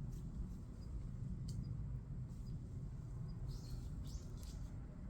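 Small birds chirping: short, high chirps, a few scattered at first and then a quick cluster about three to four seconds in, over a steady low rumble.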